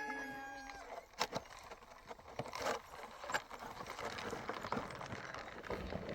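A rooster's crow trailing off and ending in the first second, followed by a faint background haze with a few sharp knocks.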